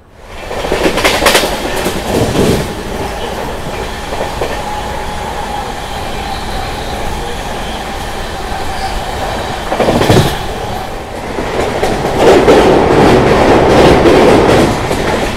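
An Indian express train's coaches running at speed, heard from an open coach door: a steady rail rumble with a few sharp clicks of wheels over rail joints. It grows louder over the last few seconds as the train runs onto a bridge.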